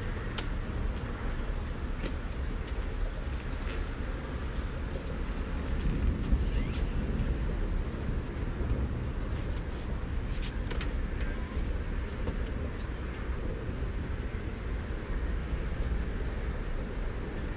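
Steady low rumble of outdoor town ambience with road traffic, swelling briefly about six seconds in, with faint scattered ticks over it.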